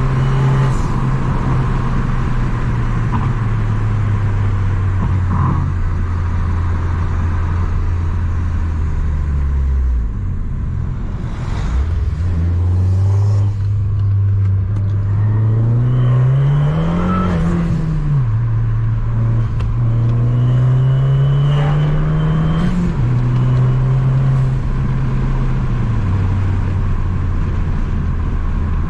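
Tuned Abarth 595 Competizione's 1.4-litre turbo four-cylinder, with a 60 mm full exhaust, running loud. Its pitch dips about a third of the way in, then climbs twice under revving, each time dropping back sharply, before settling to a steady drone.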